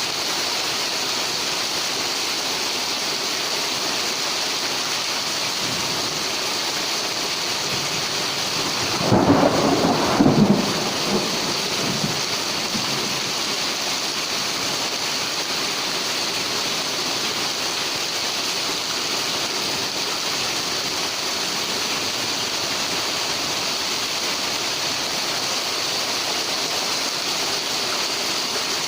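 Heavy rain pouring steadily. About a third of the way in a clap of thunder cracks twice and rumbles off over a few seconds.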